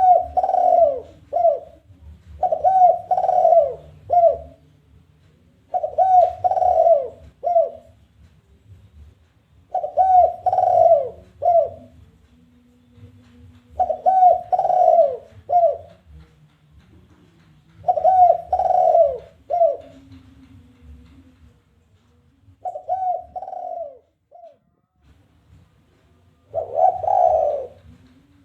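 Spotted dove (tekukur) giving its challenging coo song of the 'kuk 1' type: repeated phrases of a few rolling coos, each ending in one short clipped note, about every four seconds.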